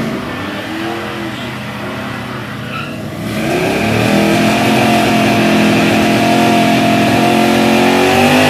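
Drag-racing pickup truck engine revving up and down, then climbing about three seconds in and held at steady high revs.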